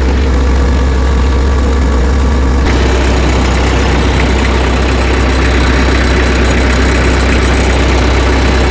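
Tractor engine running at idle, a steady low drone, turning brighter in tone about three seconds in.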